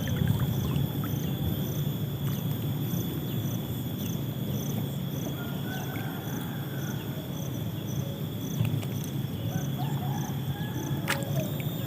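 Insects chirping: a steady high buzz with a regular chirp about twice a second, over a steady low rumble.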